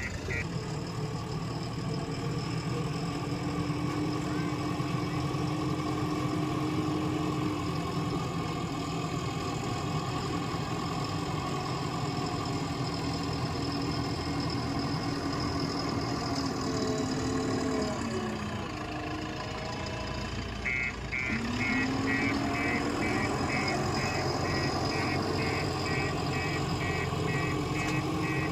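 Diesel engine of a JCB backhoe loader running steadily while it works; about two-thirds in its pitch sags and drops, then picks up again. A fast, evenly repeating high-pitched beep sounds over the engine in the last third.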